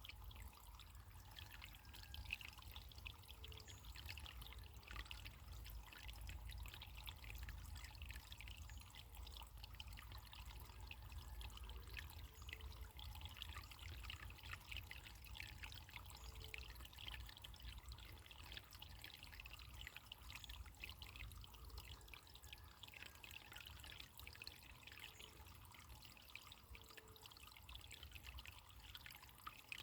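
Faint running water trickling and splashing steadily, with a low rumble underneath.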